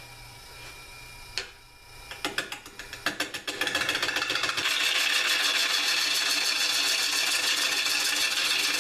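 Bowl gouge cutting a spinning dry hard maple bowl blank on a Jet mini 1221 wood lathe. A few scattered knocks come first, then from about three and a half seconds in a loud, rapid, even chatter of the tool against the wood.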